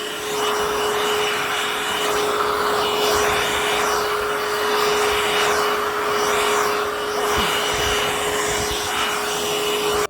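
Hoover H-Free 100 cordless stick vacuum running, its motor holding a steady whine over rushing suction noise that swells and fades about once a second. The sound cuts off suddenly at the end.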